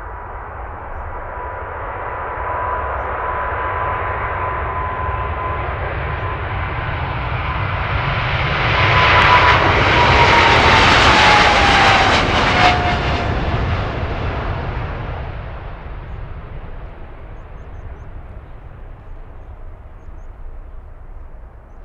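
Jet airliner passing close by. The engine noise swells to a peak about halfway through and then fades. A steady engine whine holds its pitch, then drops in pitch as the aircraft goes past.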